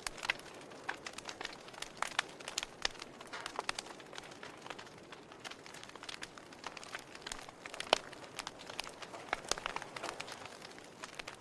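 Fire burning in a fireplace, crackling with irregular sharp pops over a faint steady hiss. The loudest pop comes about eight seconds in.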